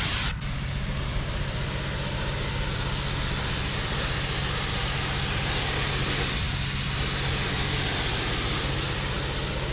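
Pressure washer running: a steady hiss of the high-pressure water jet over the low, even hum of the machine.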